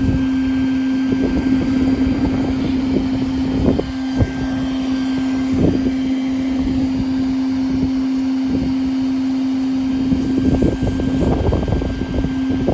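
A honeybee colony disturbed during extraction from a speaker box, giving a steady mass buzzing hum. Irregular knocks and low rumbles from handling the box and wind sound over it, strongest about 11 to 12 seconds in.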